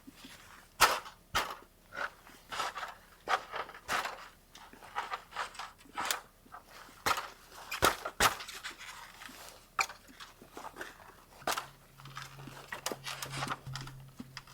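Irregular crunches and knocks, one or two a second, from boots in snow and an A-frame ladder being set up and climbed.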